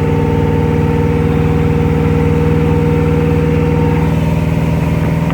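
Supra Sunsport's inboard V8 engine running under throttle in gear, steady, its tone shifting slightly about four seconds in. It is running down on power, a fault that was traced to the spark plug wires for cylinders 2 and 3 being swapped.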